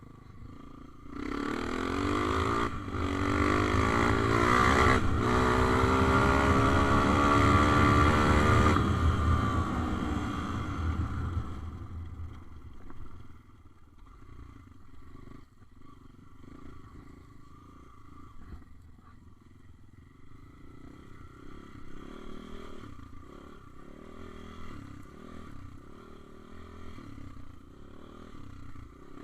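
Small motorbike engine revving hard close by, its pitch climbing for several seconds, then fading away; a quieter engine keeps running faintly afterwards.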